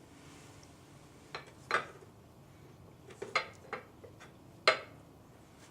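Distributor parts and tools being handled, giving a scatter of light metallic clinks and knocks, about seven in all. The loudest comes near the end.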